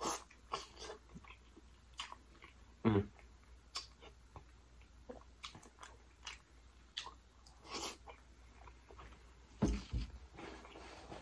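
A person chewing and biting lobster tail meat coated in butter sauce, with irregular mouth clicks and smacks and a few louder bites.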